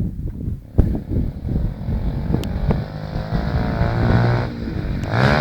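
90 cc Honda pit bike engine running and being revved: its pitch climbs from about two seconds in, falls back after four seconds, then climbs again near the end, with a sharp knock under a second in and rumble on the phone's microphone.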